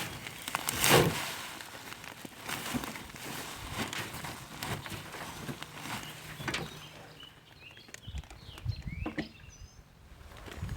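Scattered rustling, knocks and footsteps from hands-on work, with one louder knock about a second in. A few short, high chirps come near the end.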